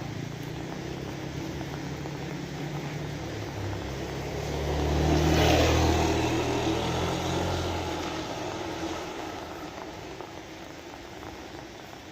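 A motor vehicle drives past, its engine hum growing louder to a peak about halfway through and then fading away. Steady rain hisses throughout.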